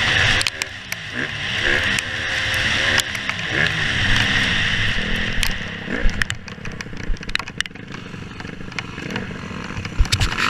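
Dirt bike engine revving up and down through the gears, with heavy wind noise on the microphone. About six seconds in, the engine drops back to a quieter, lower run, with scattered knocks and rattles.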